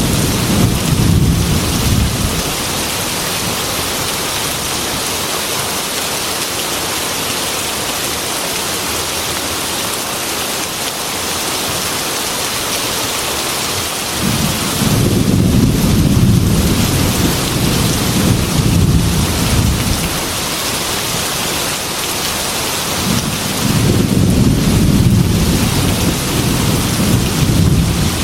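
Heavy rain beating steadily on a glass window, with rolls of thunder rumbling three times: one fading out about two seconds in, one from about halfway that lasts several seconds, and another starting near the end.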